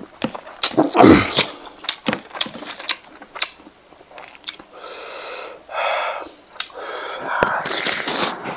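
Close mouth sounds of eating pork belly and rice by hand: wet chewing and lip smacks, with several loud breathy huffs in the middle and near the end.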